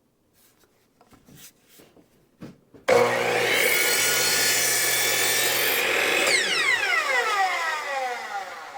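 Electric miter saw cutting through a tree branch, starting suddenly about three seconds in. Its motor winds down with a falling whine as the blade coasts to a stop, the saw held down until it stops.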